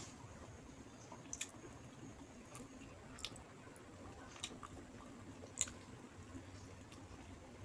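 Faint chewing of a mouthful of rice and fish curry, with sharp wet mouth clicks and smacks every second or so, the loudest about five and a half seconds in.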